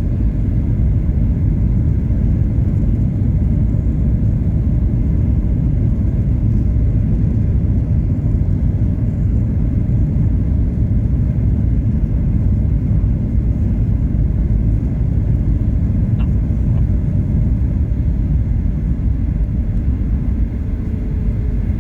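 Steady low rumble inside the cabin of a Boeing 737-800 in motion.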